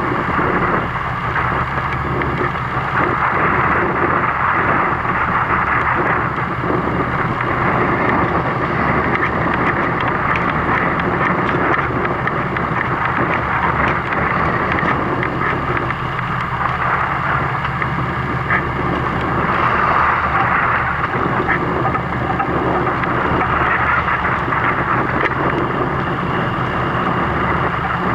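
Boat's engine running steadily under a constant rush of wind and water noise.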